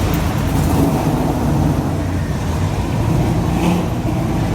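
Engines of show cars running with a low, steady note as the cars drive slowly by.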